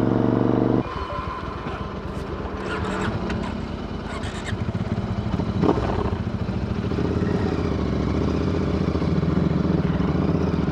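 Royal Enfield Interceptor 650's parallel-twin engine running through AEW aftermarket exhausts while riding, with wind rush. The loud engine note drops abruptly about a second in, then runs on steadily at a lower level.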